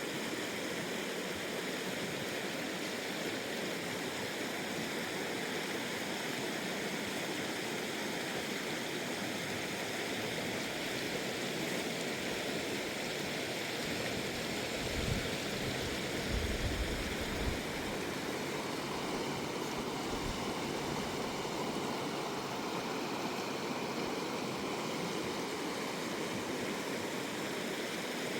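River water rushing steadily over rocks, with a few dull low bumps around the middle.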